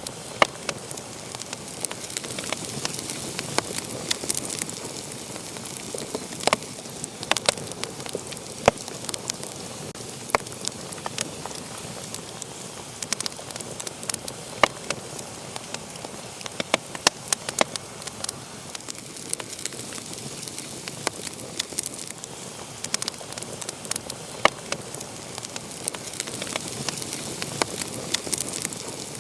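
Wood fire crackling in a fireplace: a steady soft hiss with frequent irregular sharp pops and snaps, a few of them louder.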